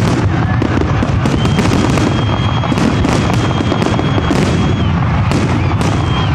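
Fireworks finale barrage: aerial shells bursting in rapid, unbroken succession as a dense wall of booms and crackle. A long high whistle is held for a few seconds in the middle.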